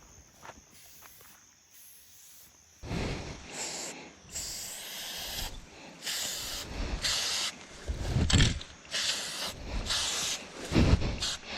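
Aerosol spray paint can spraying in a run of short hissing bursts, starting about three seconds in, as lines of paint are laid down.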